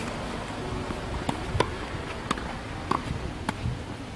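Tennis ball being struck by rackets and bouncing on the court during a rally: a string of sharp pops, about one every half-second to second, over a steady low background noise.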